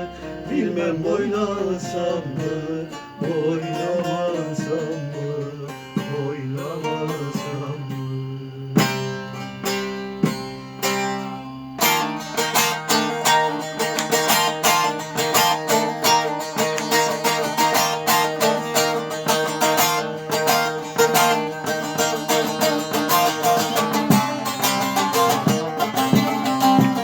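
Instrumental break in a Turkish folk song played on a plucked string instrument; about twelve seconds in the playing turns to fast, dense picking over a steady ringing drone.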